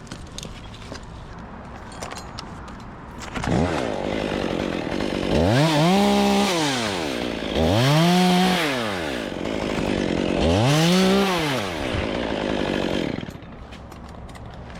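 Two-stroke chainsaw started about three seconds in, then revved up and back down three times before it stops near the end.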